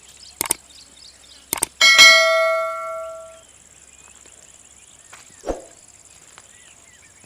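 A single metallic bell ring, struck once about two seconds in and fading over about a second and a half, with two sharp clicks just before it. A dull thump comes near the end.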